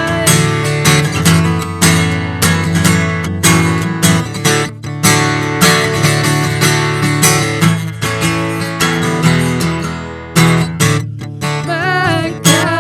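Instrumental passage of a live worship song, with acoustic guitar strummed in a steady rhythm.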